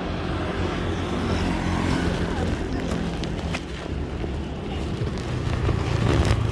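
Road traffic heard while riding: a steady low rumble of vehicles and wind, with faint engine hum and a few light clicks.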